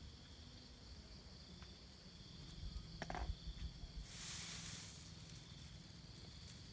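Insects droning steadily in two thin high tones, with a brief burst of hissing noise about four seconds in and a short knock a little before it.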